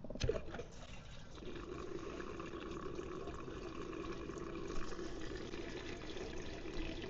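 Gasoline being poured into the empty, freshly de-rusted steel fuel tank of a Victory V92C motorcycle. A short knock comes at the start, then a steady pour runs from about a second and a half in until just before the end.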